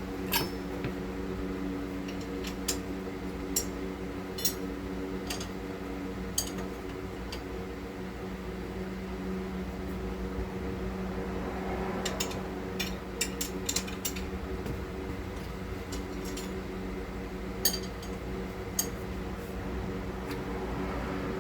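Scattered sharp metallic clinks and clicks of hand tools working on a lower ball joint's cotter pin and castle nut, with a quick run of clinks about twelve to fourteen seconds in. A steady mechanical hum runs underneath.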